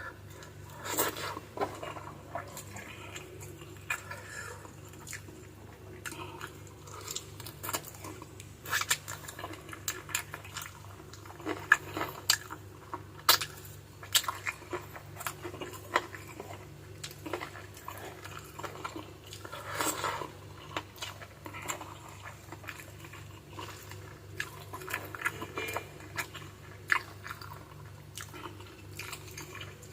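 Close-miked chewing and biting on chicken feet adobo: wet, sticky chewing broken by irregular small crunches and clicks of gristle and small bones. A steady low hum lies underneath.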